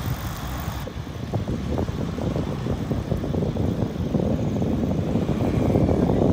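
Wind buffeting the microphone of a moving bike, with rumbling ride noise, growing louder toward the end as the ride speeds up.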